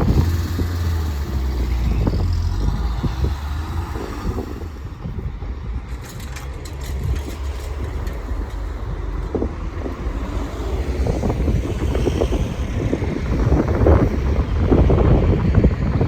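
Road vehicles running and passing, with a steady low engine rumble strongest in the first few seconds, then rough gusty noise building toward the end.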